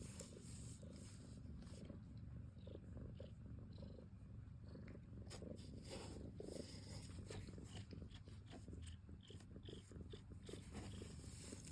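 Domestic cat purring steadily in a low continuous rumble, close to the microphone.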